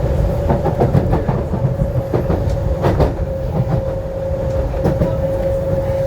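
Docklands Light Railway train running along the track: a steady low rumble under a constant even whine, with irregular clicks and knocks from the wheels over the rails.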